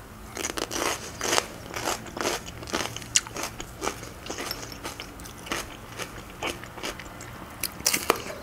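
Crunchy raw vegetables, slices of radish and red bell pepper, being bitten and chewed, a crisp crunch about two to three times a second. A fresh, louder bite comes near the end.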